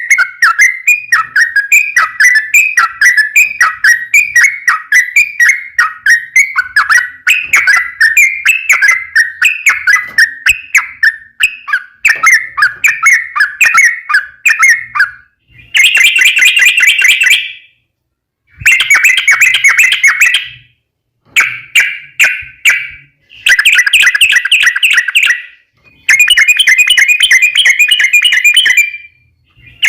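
Yellow-vented bulbul song: a fast, bubbly chatter of quick repeated notes for the first half, then from about halfway a run of long rapid trills, each lasting two to four seconds with short breaks between them. This is a lure recording played to make other bulbuls answer.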